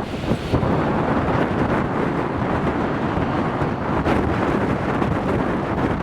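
Strong gusty wind buffeting the microphone: a loud, uneven rushing and rumbling.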